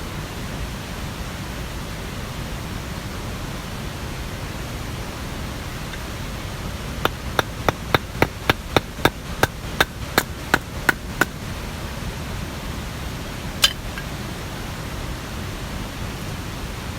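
Steady rushing of water, with a run of about a dozen sharp knocks, roughly three a second, starting about seven seconds in, and one more single knock a couple of seconds later.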